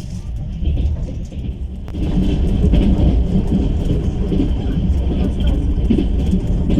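Steady low rumble of a passenger train carriage running on rails. It gets louder about two seconds in and then holds steady.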